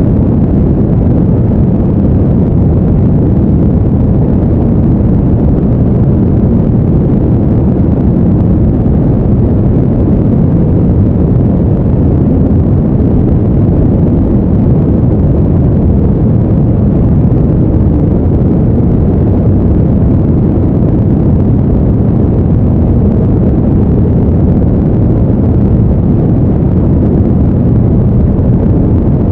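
Steady deep rumbling noise, even and unbroken, with no tones or rhythm and most of its weight in the low range: a brown-noise style sleep sound.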